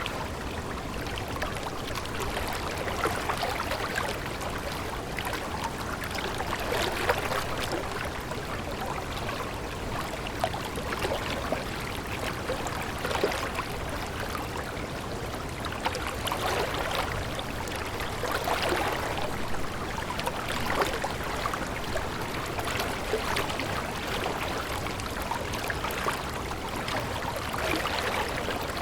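Running water, a steady stream trickling with many small irregular splashes.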